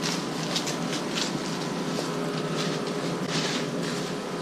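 A steady mechanical hum with soft, short rustles coming and going over it.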